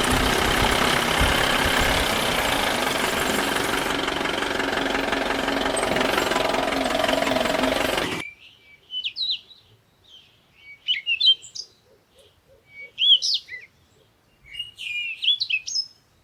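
A vehicle engine running steadily for about eight seconds, cut off abruptly, then birds chirping in four short bursts of quick rising and falling notes.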